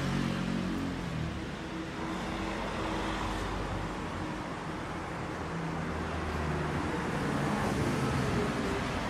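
Benelli 502C's 500 cc parallel-twin engine running at idle, a steady exhaust note that grows a little louder in the second half.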